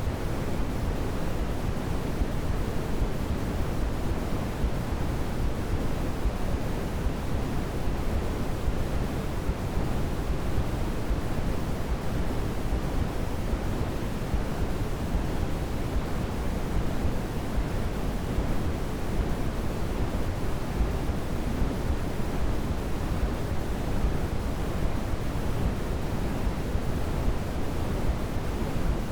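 Steady sleep-aid noise: an even, unbroken hiss with most of its weight in the low end, like pink noise.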